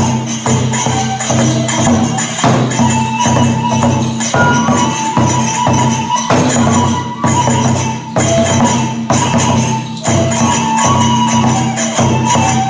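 Kagura festival music: a taiko drum beating a steady rhythm with small hand cymbals clashing on the beats, under a wavering bamboo flute melody.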